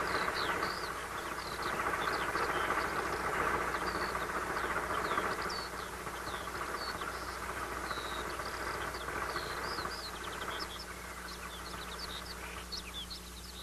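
Train running on the rails with a steady rumbling rattle that eases off somewhat after about six seconds. Short high chirps of small birds are scattered over it.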